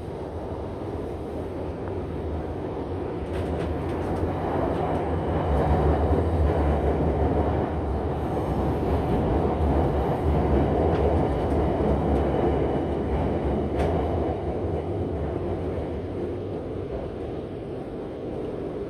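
Shanghai Metro Line 9 train running through the tunnel, heard from inside the carriage: a steady low rumble of wheels and motors that swells through the middle and quietens near the end as the train slows for the next station.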